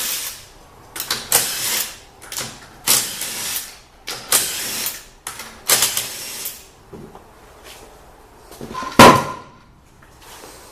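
Metal workshop tool sounds from work on the car: a run of rattling strokes about every second and a half, then a loud ringing metal clank about nine seconds in.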